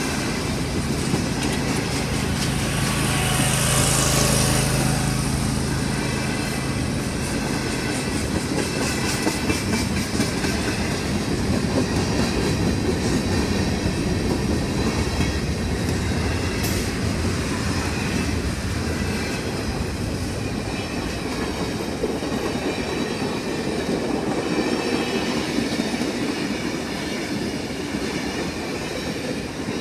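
Railroad cars rolling steadily past: freight tank cars and covered hoppers, then passenger coaches. Steel wheels rumble and clatter over the rail joints, with a low steady hum during the first several seconds.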